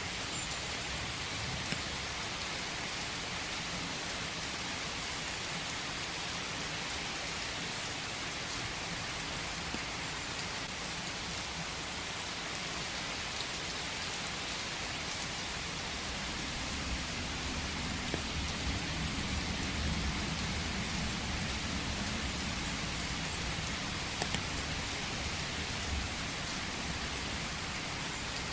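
Steady rain falling in a forest, with a few separate drops ticking through the hiss. A low rumble swells up about halfway through and fades again near the end.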